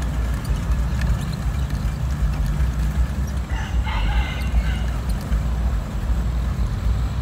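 A bird calls once for about a second, roughly three and a half seconds in, over a steady low rumble.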